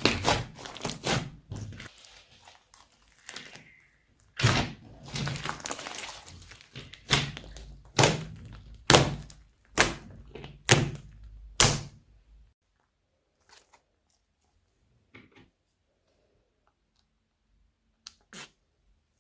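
Slime being slapped and pressed by hand: a run of dull, wet thunks with a longer squishing stretch, settling into about one slap a second. After about twelve seconds it stops, leaving only a few faint clicks.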